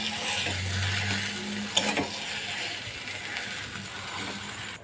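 Potato filling frying in a kadai, a steady sizzle while a flat metal spatula stirs it and scrapes against the pan, with one sharp scrape about two seconds in.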